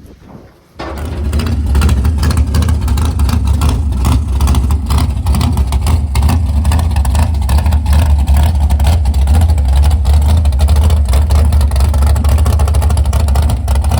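A loud vehicle engine running close by, cutting in suddenly about a second in and then holding steady with a heavy low rumble.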